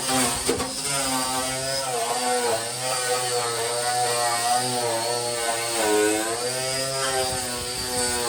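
A motor running continuously, its pitch dipping and rising again every second or so as if under changing load.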